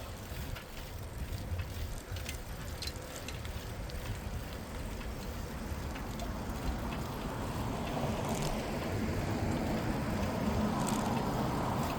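Bicycle riding along a city street, with steady wind rumble on the microphone and a few light clicks. From about halfway a broader traffic rush builds and grows louder.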